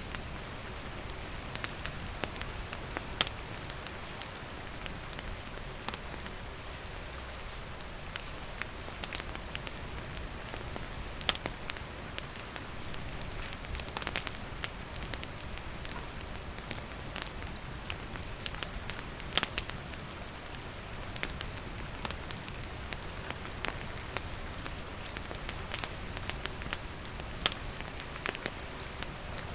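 Steady rain hissing on foliage and a wooden roof, with a wood campfire crackling: sharp pops and snaps scattered irregularly, several a second.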